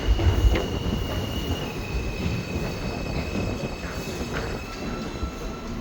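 M subway train moving through the station with a steady, high wheel squeal that drops slightly in pitch about two seconds in, over a low rumble. A few sharp rail clicks sound near the start.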